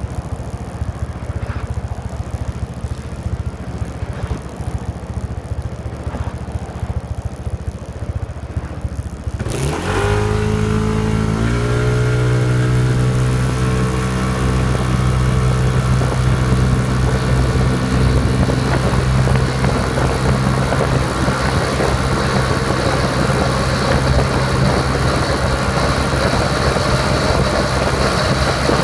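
Yamaha Majesty S scooter's single-cylinder engine breathing through an SP Tadao Power Box stainless aftermarket muffler: it idles low and steady, then about nine seconds in the throttle opens and the exhaust note climbs quickly. The note then holds almost level as the CVT keeps the revs up under full-throttle acceleration toward top speed, with a rising rush of wind.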